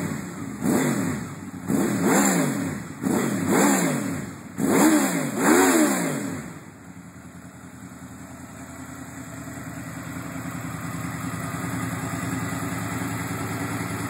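Honda VFR800 VTEC V4 engine through a Scorpion carbon exhaust, revved in a series of quick throttle blips, each rising and falling in pitch. About six and a half seconds in, it drops back to a steady idle.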